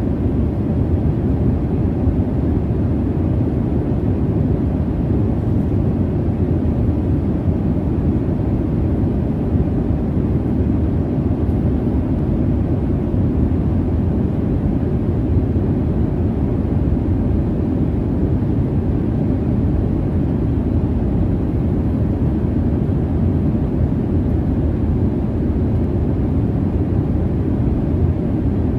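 Jet airliner cabin noise: a steady, deep rumbling hiss of the engines and airflow heard from inside the cabin, unchanging throughout.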